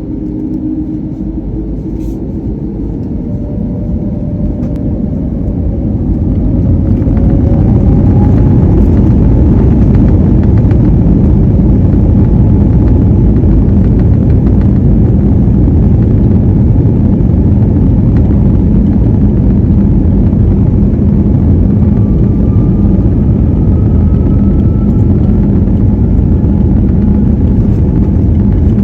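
Jet airliner's engines spooling up to take-off thrust, a rising whine over the first several seconds as the sound grows much louder. They then hold a steady, loud, deep roar through the take-off roll, with a faint whine slowly rising in pitch near the end.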